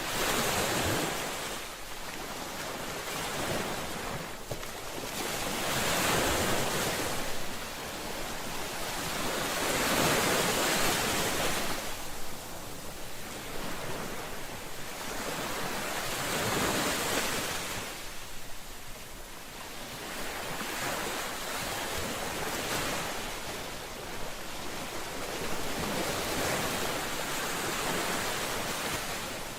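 Ocean waves breaking on the shore, each wave a rushing surge that swells and ebbs every few seconds.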